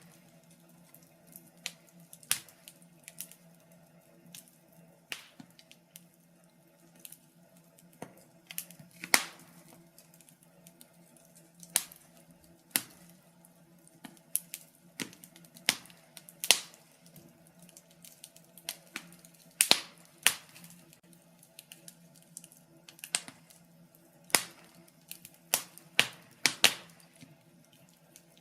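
Burning firewood crackling and popping in a fireplace: sharp irregular pops, sometimes a few close together, over a faint low steady hum.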